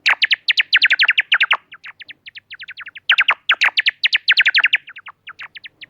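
Bats squeaking: rapid trains of short, high chirps, each sliding down in pitch, about seven or eight a second, louder at the start and again in the middle.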